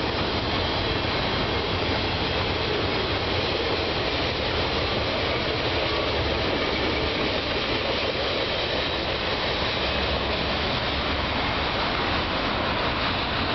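Freight train of boxcars rolling past, a steady noise of steel wheels on the rails.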